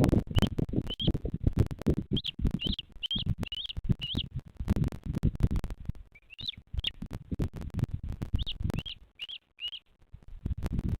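A bird chirping: short, quick rising-and-falling chirps, about two a second, in three runs of four or five. Under them is irregular low rumbling with knocks.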